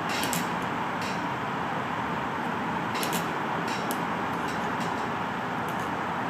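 Enjomor 6cc hit-and-miss model gasoline engine running just after a hard start, a steady mechanical clatter with sharp clicks at irregular intervals.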